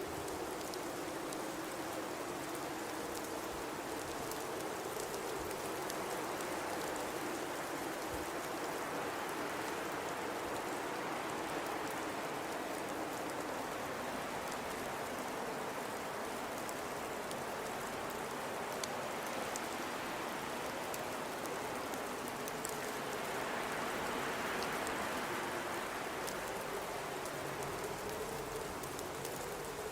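Blizzard wind blowing steadily, with a low moaning tone that drifts slowly in pitch. It swells briefly about three-quarters of the way through.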